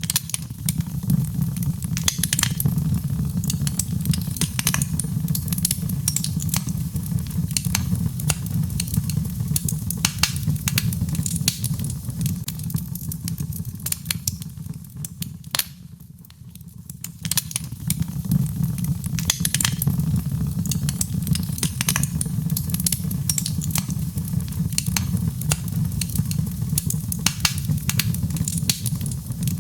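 Birchwood fire burning in a fireplace: rapid, irregular crackles and sharp pops over a steady low rush of flame. The rush dips for a couple of seconds about halfway through, then comes back up.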